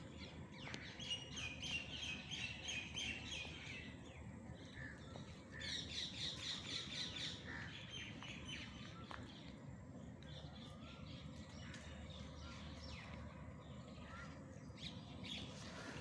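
Birds chirping in two spells of quick, repeated notes: one from about a second in for some three seconds, and a louder one about six seconds in for two seconds. Fainter scattered chirps follow, over a faint steady background noise.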